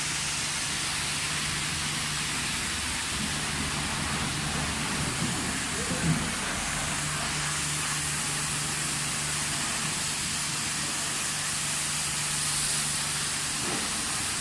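High-pressure water spray hissing steadily onto a car during a wash, over a constant low hum.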